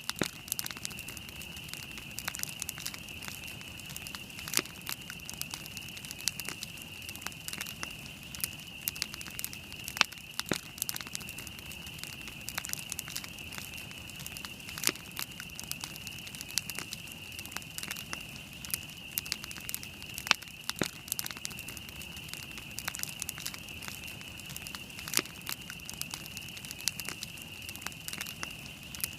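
Wood campfire burning, with irregular sharp crackles and pops several times a second, some louder than others, over a steady high hiss.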